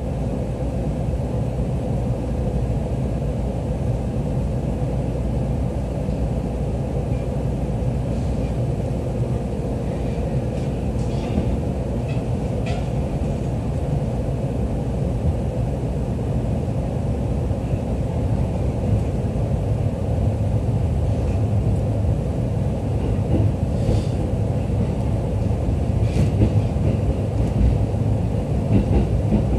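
Running noise heard inside a JR East E531-series electric train car: a steady rumble of wheels on rail, with a few faint clicks and rattles along the way.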